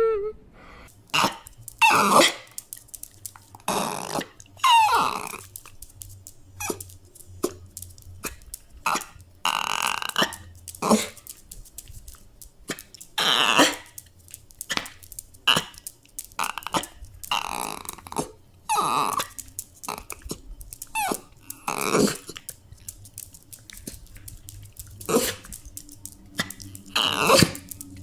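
A dog crying: short, irregular throaty whines and sounds about once a second, some sliding up or down in pitch, with small clicks between them.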